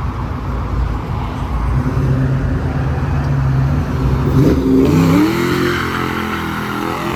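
Car engine running loudly, holding steady and then revving up about halfway through, its pitch rising before settling again.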